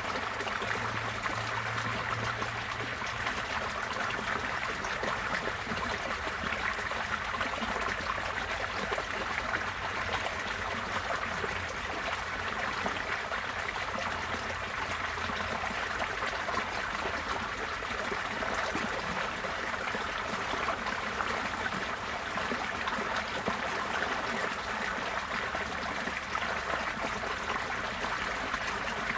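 Receding floodwater flowing in a steady stream, a continuous even rush and trickle of water.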